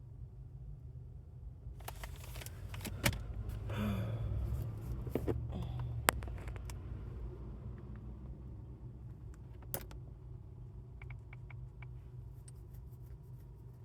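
Things being handled and moved about inside a car: rustling with a few sharp knocks a few seconds in and again near ten seconds, then small light clicks near the end, over a low steady rumble.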